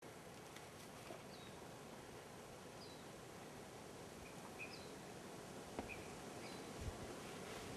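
Faint outdoor ambience with a bird giving short, high chirps that repeat about every second and a half, and a couple of soft thumps in the second half.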